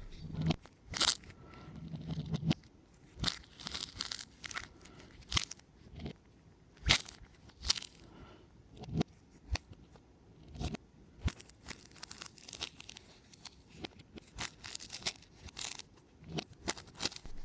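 An orange being pulled apart by hand: crisp tearing and crackling in irregular short bursts, a few a second, presented as a satisfying sound.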